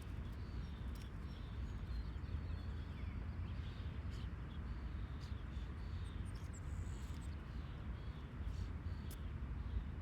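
Outdoor field ambience: a steady low rumble, with faint bird chirps and a few light clicks.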